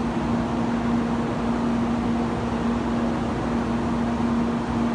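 Tokaido Shinkansen train standing at the platform with its fans and onboard equipment running: a steady hum with a constant low tone.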